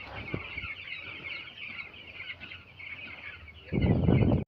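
A shed full of ten-day-old broiler chicks peeping continuously in a dense, high chorus. Near the end a louder low rumbling noise lasts under a second and then cuts off abruptly.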